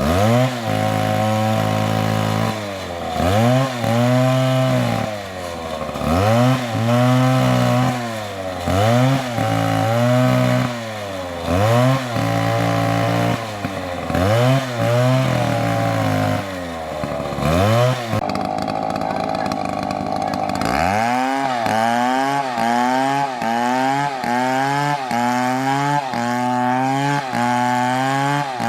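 Two-stroke chainsaw running hard, its engine pitch rising and falling in repeated surges about once a second as the throttle is worked. About two-thirds through there is a brief steadier stretch, then the surging resumes a little faster.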